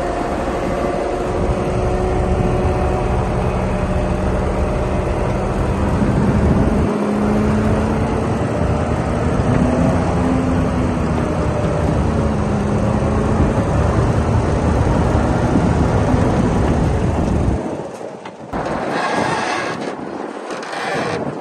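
Bulldozer's diesel engine running hard, its pitch wavering up and down as it works. About three-quarters of the way through, the deep engine sound drops away abruptly and a thinner, hissier sound takes over.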